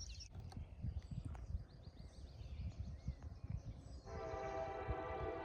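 Faint bird chirps over a low wind rumble, then about four seconds in a distant locomotive air horn starts sounding a steady chord and holds: the five-chime K5LA horn of approaching CN SD70M-2 8852.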